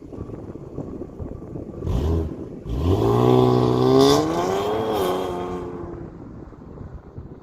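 Infiniti 3.0t twin-turbo V6 with a 3-inch AAM catback exhaust accelerating past: the exhaust note rises in pitch, peaks, drops as the car goes by, then fades.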